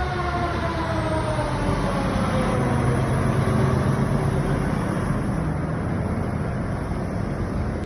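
Pierce Velocity fire truck going by on a call: its siren tone slides down in pitch and fades over the first few seconds, while the diesel engine's low rumble swells in the middle and then eases off.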